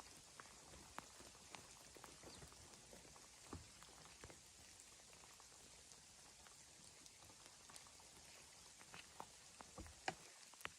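Near silence: a faint steady hiss with scattered soft clicks and ticks, a few more of them near the end.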